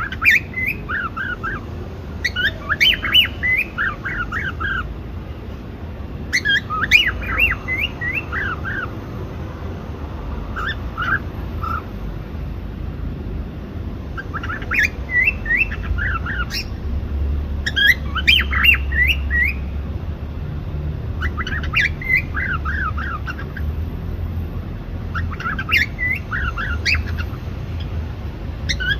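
Cockatiel chirping and whistling in short bursts of quick notes that fall in pitch, a new phrase every few seconds, over a faint low rumble.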